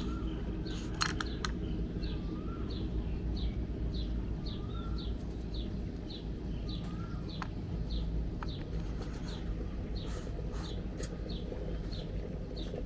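Small birds chirping: short, high, falling chirps a few times a second, with a lower two-note call every couple of seconds. Underneath is a steady low rumble, broken by a few sharp clicks.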